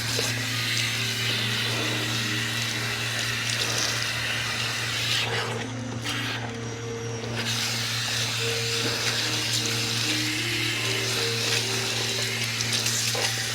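Salon shampoo-bowl spray nozzle running water onto hair in a steady hiss. It stops for about a second and a half around six seconds in, then starts again.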